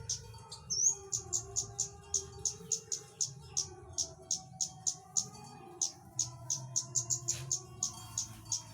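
A small bird calling in a rapid series of short, high chirps, about four a second, with one louder rising note about a second in.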